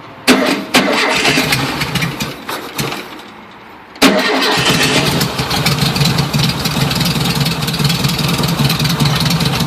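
1973 VW Super Beetle's air-cooled 1600 cc flat-four on a 21°F cold start with no choke: it fires and sputters unevenly for a few seconds and fades. About four seconds in it catches again and settles into steady running.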